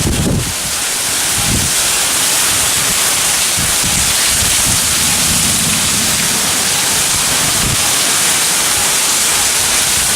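Heavy hurricane rain pouring down, a loud steady hiss, with a few brief low rumbles.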